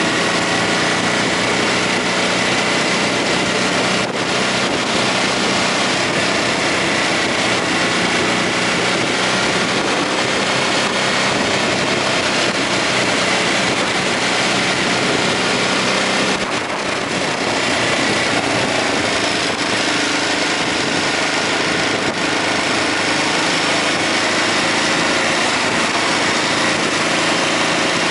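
Ducati Hypermotard 939's L-twin engine with an Akrapovic exhaust running steadily, its pitch changing only a little, with a brief dip in level about sixteen seconds in.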